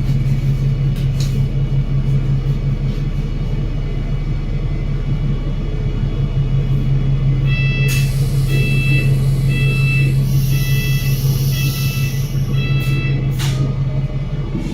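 Enviro500 MMC double-decker bus's Cummins L9 diesel engine running with a steady low drone. From about halfway through, a run of short high electronic beeps sounds, with a burst of air hiss among them.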